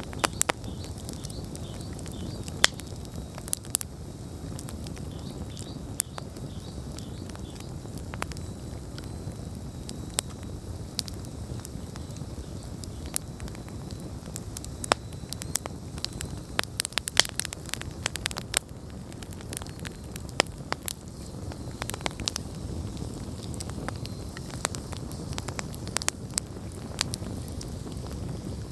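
Wood campfire burning: a steady low rush of flames with irregular sharp crackles and pops, thickening into a quick run of pops about halfway through.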